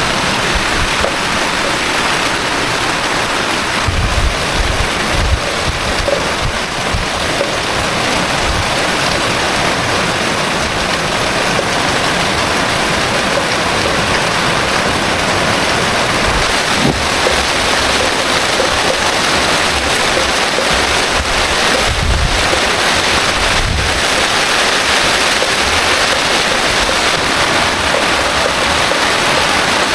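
Heavy rain falling, a loud steady hiss, mixed with rushing floodwater. A few brief low rumbles come through about four to five seconds in and again a little past twenty seconds.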